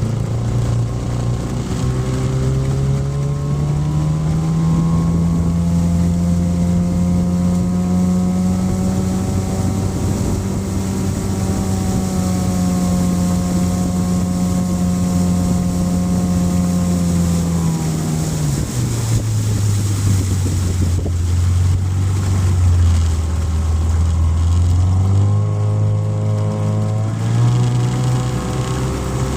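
Motorboat engine running under way. Its pitch climbs over the first few seconds and holds steady, drops sharply about two-thirds of the way through, then climbs again near the end.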